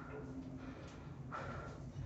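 Low steady hum of a Kone elevator, with a brief faint muffled sound about two-thirds of the way in.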